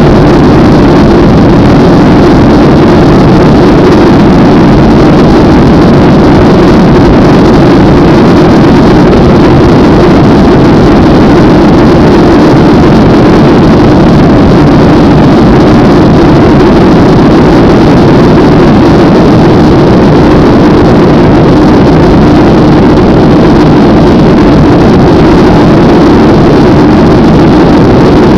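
Airliner jet engines at take-off power: a loud, steady drone with a strong low hum, unchanging throughout.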